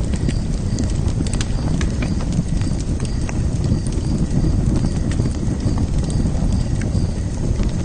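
Wood fire burning in a fire pit: a steady low rumble of flames with scattered sharp crackles and pops.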